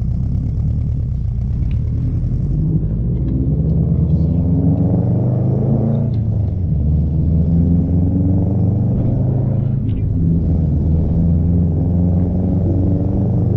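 Subaru WRX STI's turbocharged 2.5-litre flat-four accelerating through the gears on a cheap aftermarket cat-back exhaust. The engine note climbs in pitch, drops sharply at an upshift about 6 s in and again about 10 s in, then climbs again.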